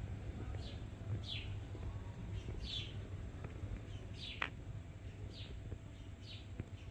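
A small bird chirping: short high chirps that fall in pitch, repeated about once a second, over a steady low hum.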